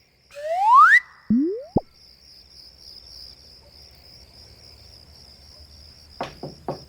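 Cartoon sound effects: a loud rising whistle-like glide, then two quick rising boing-like blips. Crickets then chirp steadily, and a few short knocks come near the end.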